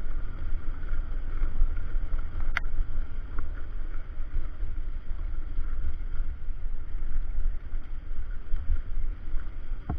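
Wind buffeting the microphone on a moving motorcycle, a heavy uneven rumble with engine and road noise beneath it. A single sharp click about two and a half seconds in.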